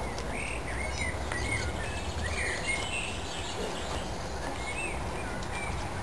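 Birds chirping and singing in short repeated phrases, over a steady low rumble.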